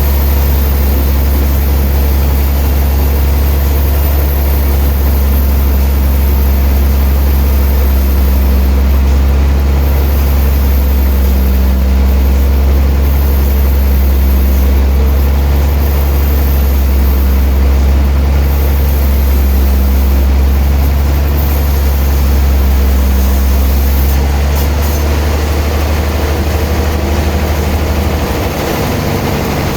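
Heavy sawmill machinery running with a steady, loud low drone, easing slightly near the end.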